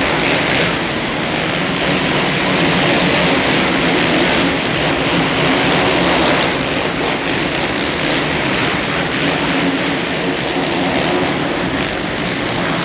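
Several motocross bikes racing round an indoor supercross track, their engines merging into a loud, continuous din that echoes in the hall.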